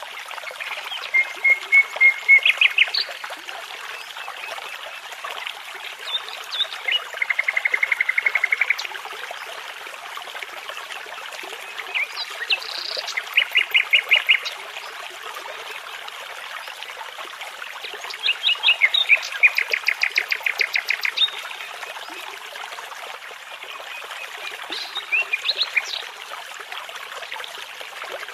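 A nightingale singing in five short phrases of rapidly repeated notes and trills, a few seconds apart, over the steady rush of a babbling brook.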